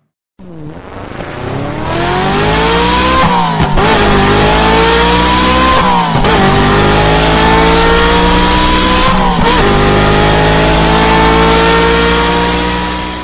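Sports car engine accelerating hard up through the gears. It cuts in suddenly, and its pitch climbs steadily in each gear, then drops at three upshifts. Each gear runs longer than the one before.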